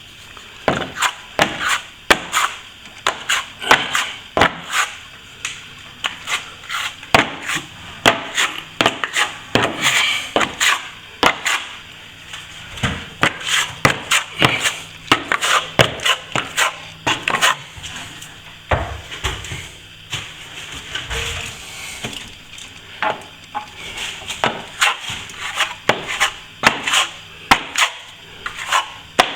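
Plastering trowel working a second coat of plaster: repeated scraping strokes with sharp taps and clicks of the steel against the hawk and wall, irregular, about one or two a second.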